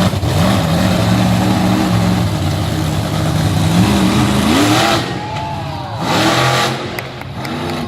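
Monster truck engine running loud at a steady pitch, then revving up about four seconds in, with two hard rises and falls in revs near the end.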